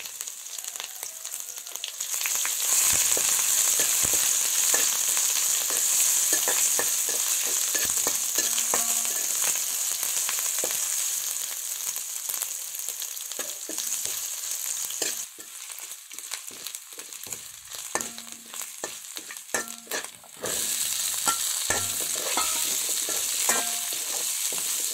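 Mustard seeds, curry leaves and ginger-garlic paste sizzling in hot oil in a metal kadai, stirred with a metal ladle that scrapes and clicks against the pan. The sizzle grows louder about two seconds in, drops back for a few seconds past the middle, then picks up again.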